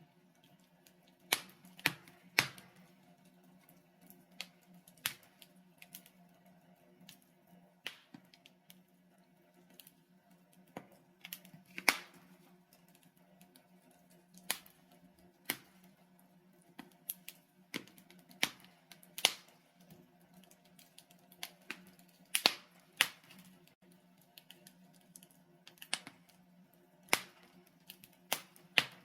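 Wood fire of burning logs crackling, with sharp irregular pops and snaps a few seconds apart, some in quick pairs, over a faint steady low hum.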